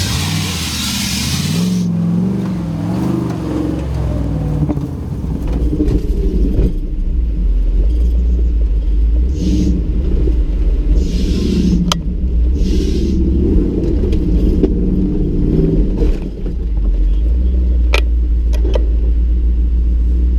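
Nissan GQ Patrol's engine running under load and revving up and down as the truck works through an off-road course. A few short bursts of hiss and a couple of sharp knocks come through over the rumble.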